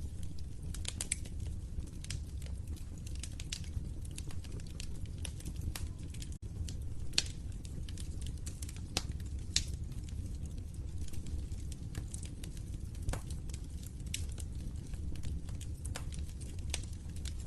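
Wood fire crackling in a fireplace: irregular sharp pops and snaps, a few louder than the rest, over a steady low rumble of burning.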